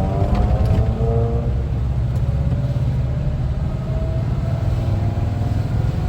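A 1974 Volkswagen Westfalia camper bus driving: its air-cooled Type 4 flat-four engine and road noise make a steady, loud low rumble.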